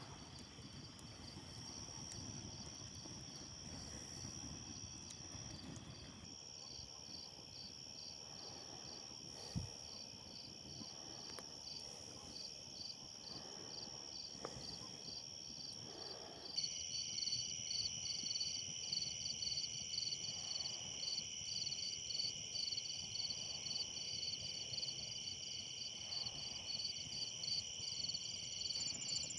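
Chorus of insects chirping: several steady high trills overlap with one rapid, evenly pulsing chirp. It grows louder about two-thirds of the way through.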